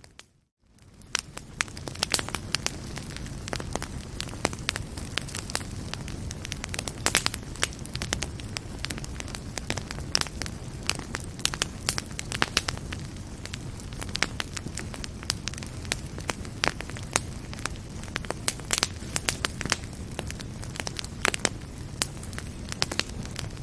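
Wood fire crackling in a fireplace: a steady low rumble of flames with frequent, irregular sharp pops and crackles. The sound drops out almost completely for a moment at the very start, then fades back in.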